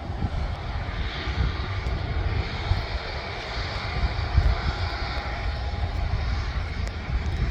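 Aircraft engines running steadily at an airport, a continuous hiss and whine with a few faint steady tones. Wind gusts buffet the microphone underneath.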